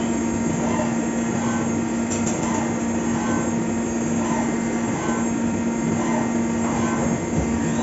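Fagima Jazz M 5-axis CNC milling machine running a cut: a steady machine hum under constant cutting noise, with a faint sound repeating about once a second.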